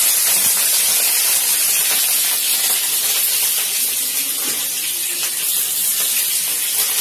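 Chopped green chilies sizzling in hot mustard oil and panch phoron in a kadhai: a loud steady hiss of frying that eases off slightly.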